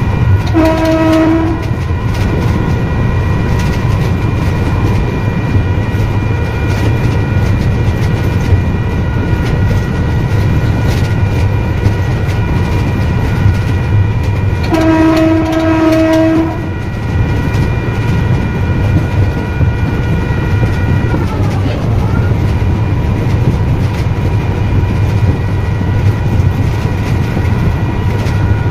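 Electric multiple-unit train running, heard from the driver's cab, with a steady low rumble and wheel clatter under a high whine that falls in pitch and fades about three-quarters of the way through. The train's horn sounds twice: a short blast about a second in and a longer one about halfway.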